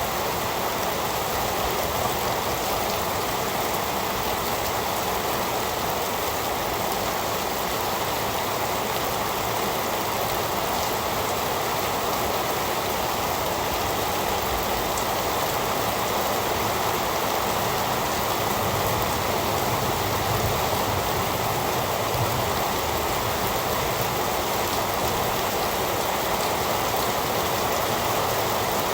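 Steady heavy rain falling, an even, unbroken wash of rain noise with no thunder.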